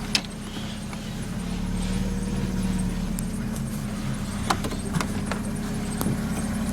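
Car engine idling through its modified exhaust, its note rising slightly for a second or so about one and a half seconds in. A few sharp clicks and knocks sound over it.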